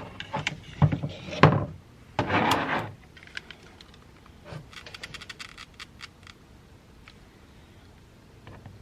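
Hand-crafting noises: a few knocks and thumps, a brief rustle about two seconds in, then a run of faint quick clicks and taps as small craft pieces are handled and glued.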